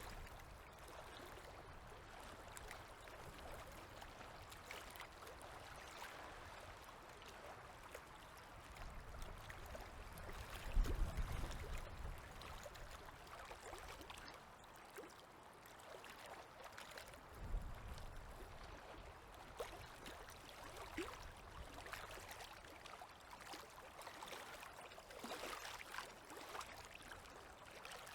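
Faint river water lapping and trickling, with small splashes and ticks throughout. Two short low thuds, about a third and two thirds of the way through, are the loudest sounds.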